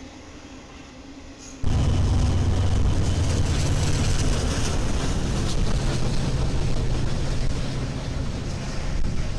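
Freight train passing: a fairly quiet rumble of rolling rail cars, then, from about a second and a half in, the much louder pass of a BNSF freight train's lead diesel locomotives, their engines droning steadily over the wheel and rail noise.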